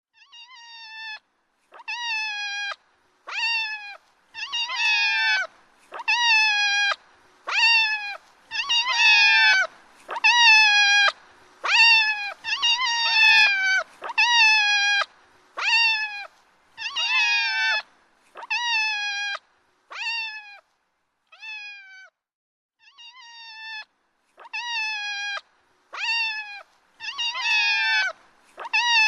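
A kitten meowing over and over: high-pitched calls about every second and a half, each dropping in pitch at its end.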